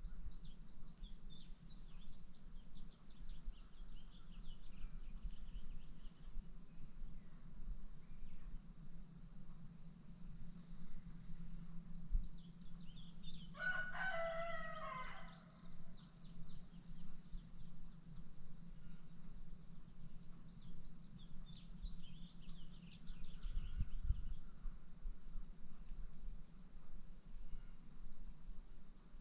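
A rooster crows once, about halfway through, in a single call of about two seconds. Behind it, insects keep up a steady high-pitched chorus throughout.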